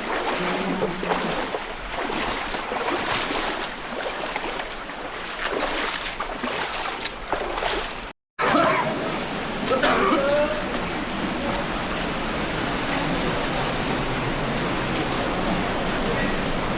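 Waterfall and stream water rushing steadily, with splashing in the first half. The sound cuts out for a moment about eight seconds in and comes back as an even rush, with a brief voice just after.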